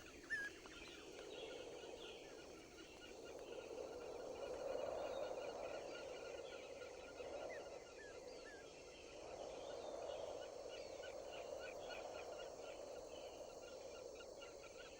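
Faint outdoor ambience: a soft rushing noise that swells and fades, with scattered short bird chirps and stretches of rapid rattling bird calls.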